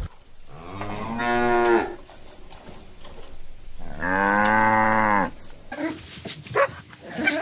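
A cow mooing twice, two long, low calls, the first rising in pitch as it starts. Short, sharp animal sounds from a different recording begin near the end.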